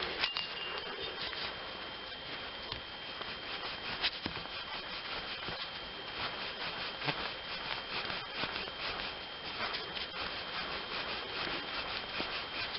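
Removed 2004 Impala wheel hub bearing assembly turned by hand: a steady dry rubbing with scattered ticks. A couple of times the worn bearing gives a dry flutter, almost like a duck quacking, probably the same noise that shows up at speed on the road.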